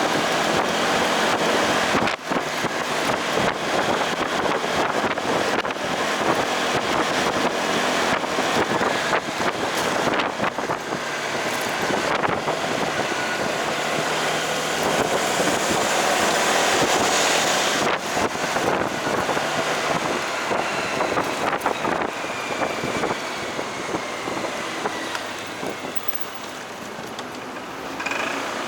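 Wind buffeting the microphone on a moving motorcycle, with engine and road noise underneath; it eases off a little near the end.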